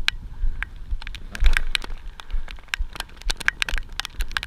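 Raindrops striking close to the microphone: many irregular, sharp ticks, with low bumps underneath.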